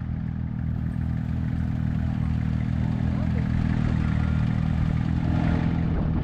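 A vehicle engine running at a steady speed, a constant low hum.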